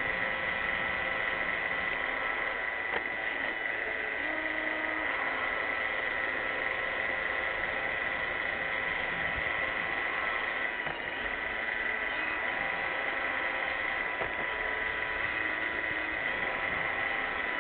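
iRobot Roomba 600-series robot vacuum running: a steady high motor whine over the hiss of its suction and brushes.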